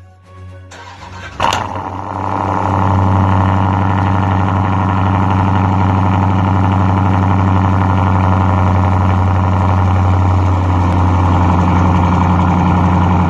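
The 6.4-litre 392 HEMI V8 of a 2018 Dodge Durango SRT, its mid muffler deleted, starting up about a second and a half in with a brief flare of revs, then running at a steady idle through the exhaust.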